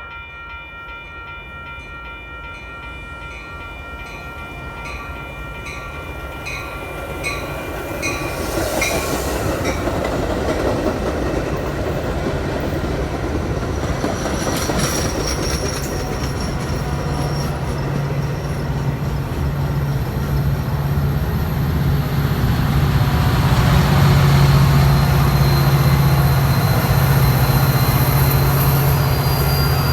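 Metra commuter train approaching and passing, growing steadily louder, with a deep steady diesel locomotive hum through the second half. A ringing repeats about twice a second during the first several seconds.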